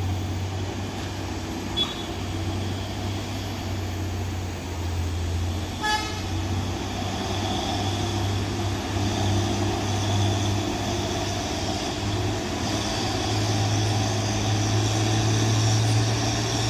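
Heavy truck engine running with a steady low drone, growing louder over the last few seconds, with one short vehicle horn toot about six seconds in.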